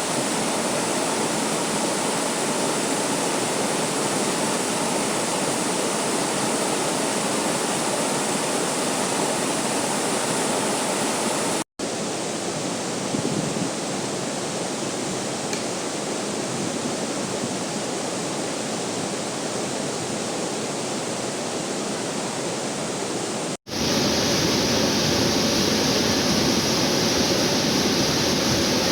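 Waterfall rushing: a steady, even roar of falling water, cut off abruptly twice and resuming each time, a little louder and deeper after the second cut.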